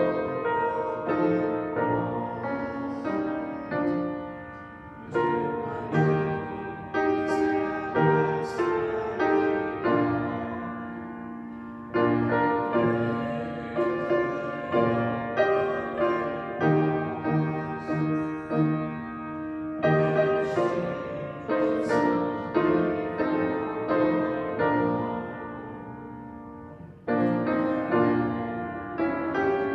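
Solo piano playing slow, chordal music, each struck chord fading before the next, in phrases with brief pauses between them.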